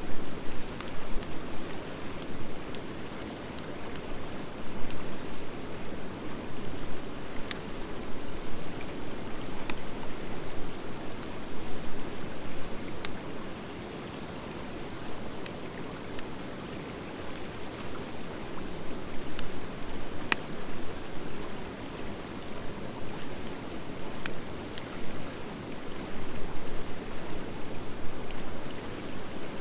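Wood fire of driftwood and hardwood logs burning with a steady rushing hiss, broken by a few sharp, scattered pops and crackles.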